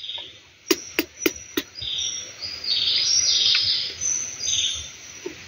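Birds chirping, with short high-pitched calls repeating one after another. About a second in come four quick sharp clicks.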